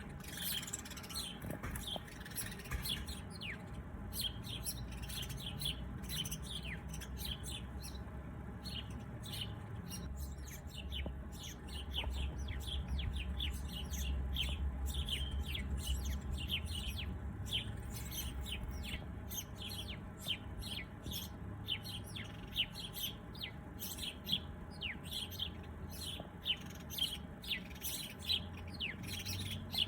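Small birds chirping: many short, quick high chirps that come sparsely at first and crowd together in the second half. A low rumble runs underneath, strongest in the middle.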